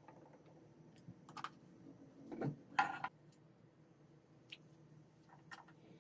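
Scattered light clicks and taps of small objects being handled, with a dull knock about two and a half seconds in followed right after by a louder, brief scraping clatter.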